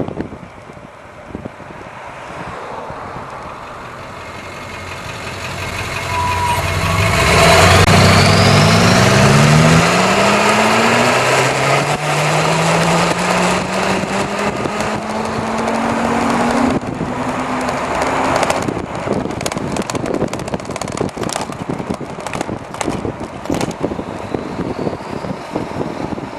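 Wind rushing over the microphone on a moving e-bike, with a motor vehicle passing close by and accelerating, its engine pitch climbing and dropping back several times as it shifts up through the gears.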